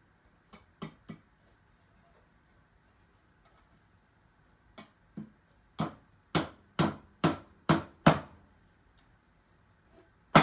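Hammer driving a nail into cedar boards: a few light taps to start the nail, then six firm blows about two a second, and one loud blow at the very end.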